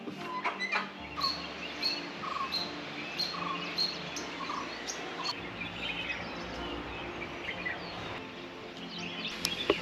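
Several wild birds calling. One repeats a short high chirp about every two-thirds of a second while others call among it. A sharp click sounds near the end.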